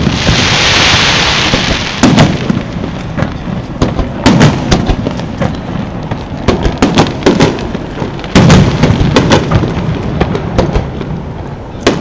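Aerial firework shells bursting overhead: a loud hiss for the first two seconds, then repeated booms, the biggest about eight and a half seconds in, each followed by a scatter of sharp pops and crackles.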